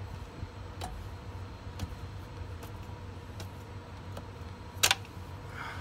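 Light metallic clicks, about one a second with a sharper one near the end, as a wrench works on the hydraulic hose fitting of a wheelchair lift, over a steady low hum.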